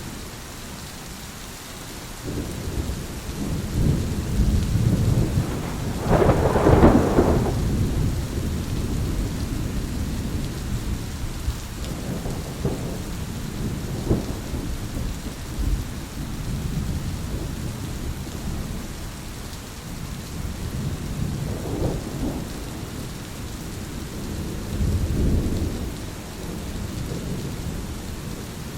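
Thunderstorm: thunder rolls and rumbles over steady rain, with the loudest, sharpest peal about six to seven seconds in and smaller rumbles later on.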